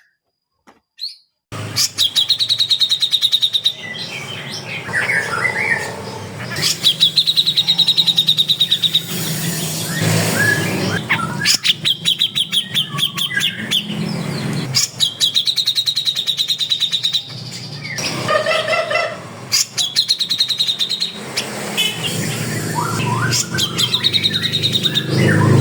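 Several caged songbirds singing and chirping: a high, fast trill about one to two seconds long comes every few seconds, with shorter chirps and whistles between. It starts about a second and a half in, over a low steady hum.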